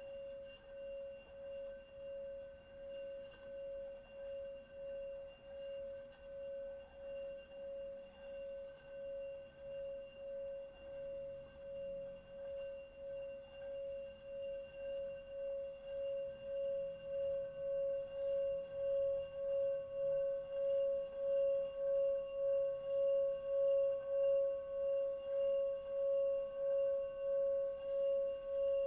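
Singing bowl sustained as one continuous ringing tone, the mallet kept circling the rim, pulsing about one and a half times a second. It grows steadily louder over the second half, with a higher overtone coming in partway through.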